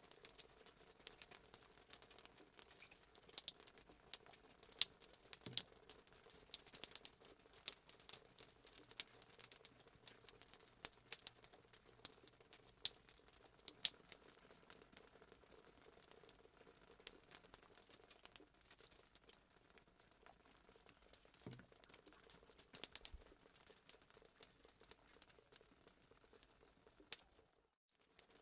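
Fireplace crackling sound effect: a dense, irregular stream of small pops and snaps from burning wood over a faint hiss. It cuts out for a split second near the end, as at a loop point.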